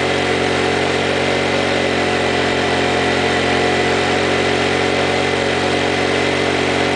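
Honda EX650 portable generator engine running at a steady speed, its exhaust valve freed after being seized. The owner takes it to be still burning off oil left in the exhaust chamber.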